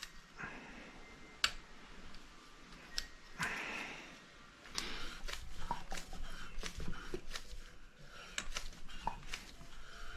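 Small metal tools and engine parts being handled on a workbench: scattered light clicks and knocks, with a brief scraping rustle about three and a half seconds in.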